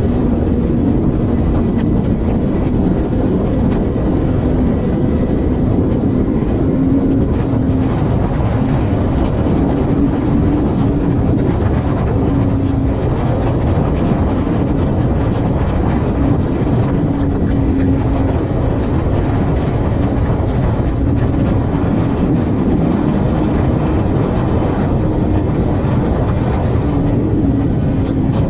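Vehicle driving at highway speed: steady road and wind noise with a low engine hum that comes and goes.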